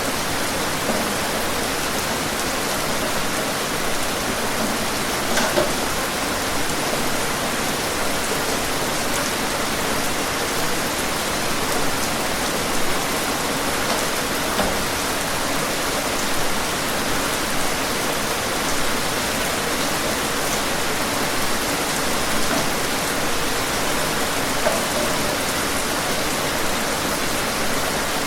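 Steady, dense rainfall pattering on a surface, with occasional louder individual drops.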